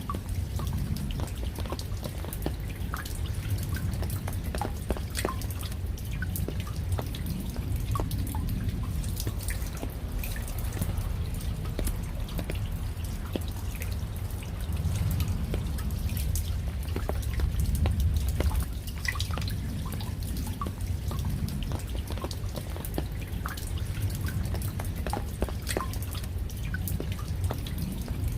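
Rain falling steadily, with many separate drops dripping and tapping close by over a low, even rumble.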